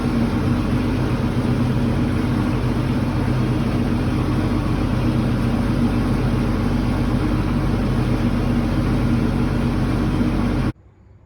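A motor vehicle's engine running steadily with a constant hum and noise, no change in speed. It cuts in and cuts off abruptly.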